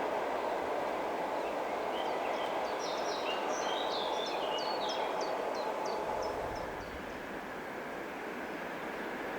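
Steady running noise of an ЭП2Д electric suburban train on the line, easing a little near the end. A songbird sings a string of short, high, falling notes through the middle.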